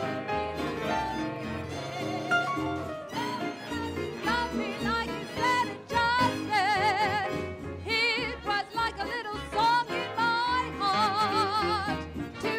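A 1930s-style big dance band playing a swing number, with a steady stepping bass line under a melody whose long held notes carry a wide vibrato.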